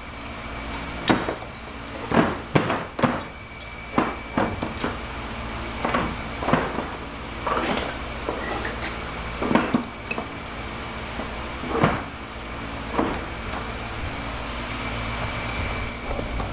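Hammer striking metal HID light ballast transformers to crack them open: about a dozen irregular, clanking metal blows, some in quick pairs, over a steady mechanical hum.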